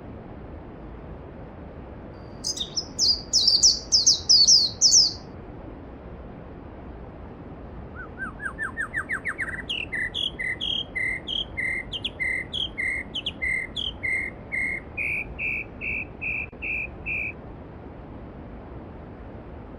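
Songbirds singing over the steady rush of a mountain stream: a bright, high trilling phrase about three seconds in, then a longer song of quick rising notes that runs into a string of evenly repeated whistled notes, about two a second, stopping a few seconds before the end.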